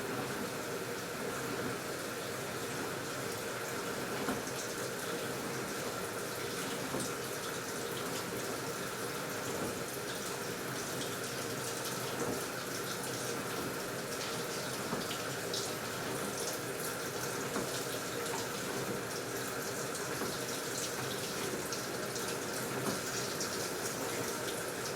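AQUA washing machine taking in water: a steady rush of water pouring into the drum, with faint light ticks and splashes.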